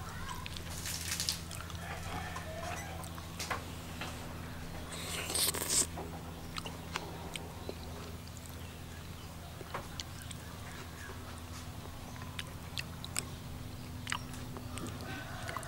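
A person eating from a spoon: chewing a mouthful of soft roasted eggplant with pork, with scattered small clicks of a metal spoon, over a steady low hum.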